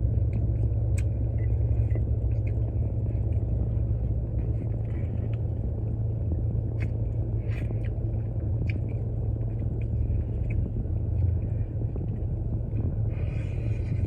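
A steady low rumble, with soft scattered clicks and smacks of someone chewing chicken wings.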